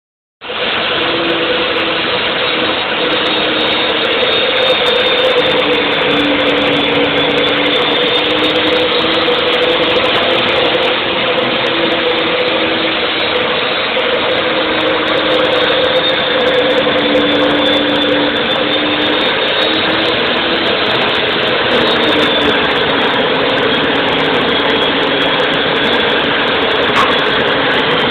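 Woodworking power saw running steadily at full speed, a continuous loud motor-and-blade hum with a slowly wavering tone.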